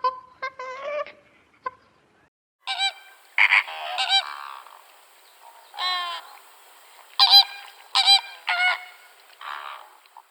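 Birds honking: a few short, quieter calls at first, then from about three seconds in a run of louder, harsh honks with short gaps between them.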